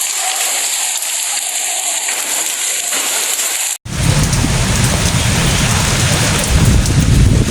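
Heavy rain and hail pouring down in a steady hiss. About four seconds in, the sound cuts out for an instant, then comes back louder and fuller with a deep rumble underneath.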